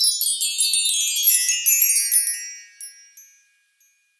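A shimmering cascade of high tinkling chimes, a magic-sparkle sound effect, that rings densely and then fades out about three seconds in.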